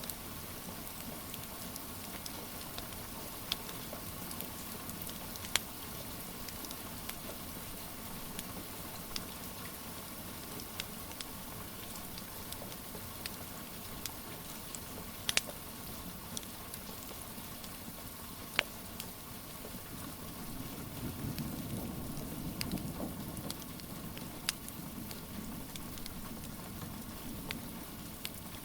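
Steady rain hiss mixed with a wood fire crackling, sharp pops every few seconds. A low rumble swells for a few seconds about two-thirds of the way through.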